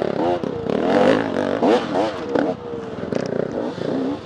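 Dirt bike engine revving up and down again and again as the throttle is worked over rough off-road terrain, with clattering knocks from the bike over the ground.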